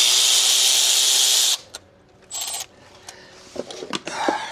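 A cordless power tool runs for about a second and a half, then gives a second short burst about two seconds in, followed by a few light metallic clicks.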